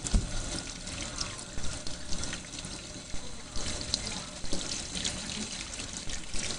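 Tap water running into a sink during a puppy's bath, with scattered small clicks and knocks.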